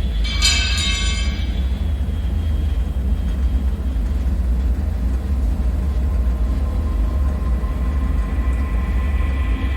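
Dark ambient bunker drone: a deep, steady rumble. About half a second in comes a brief high, ringing screech of several tones that fades within a second. A faint high whine comes in near the end.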